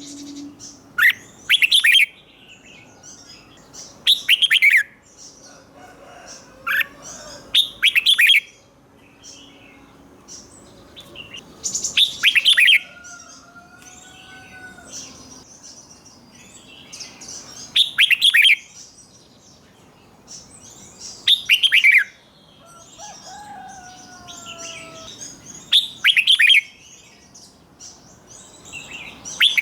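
Red-whiskered bulbul singing: short loud phrases of quick falling notes about every three to four seconds, several given twice in quick succession, with softer chattering between them.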